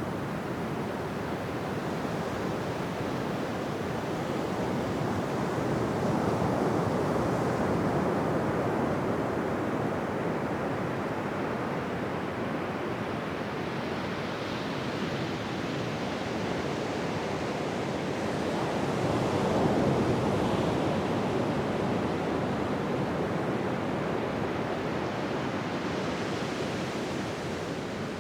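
Ocean waves breaking and washing on a beach: a steady rush of surf that swells twice, about six seconds in and again near twenty seconds, then eases.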